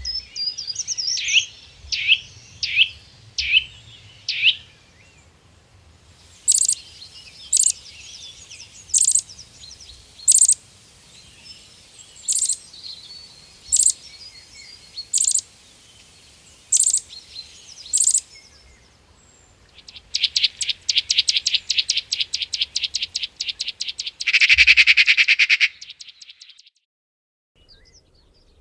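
Songbirds calling: first a quick run of sharp downward-sweeping notes, then a single high call repeated about every one and a half seconds, then a fast trill of around a dozen notes a second that ends in a louder buzzy stretch.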